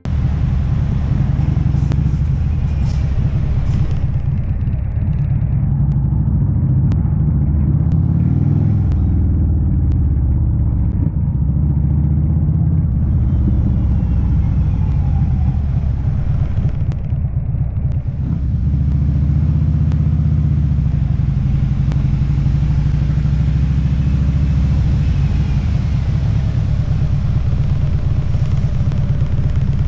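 Motorcycle engine running under way, its pitch rising and falling with throttle, over wind and road noise.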